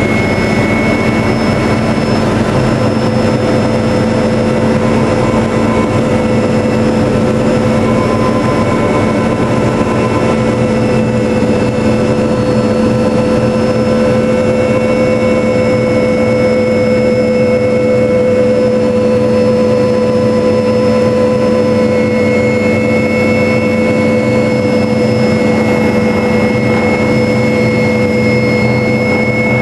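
MD500 helicopter in flight, heard from inside the cabin: its turbine engine and rotor give a loud, steady drone with several constant tones that hold unchanged throughout.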